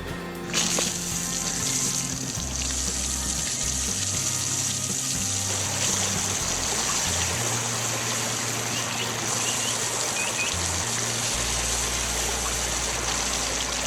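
A steady, high, water-like rushing sound effect that starts suddenly with a click about half a second in and stops shortly before the end, over background music with a shifting bass line.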